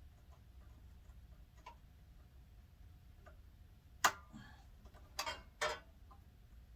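Faint scattered ticks over a low hum, then a sharp click about four seconds in and two short clattering scrapes just after: parts and hand tools being handled while a snowblower is put back together.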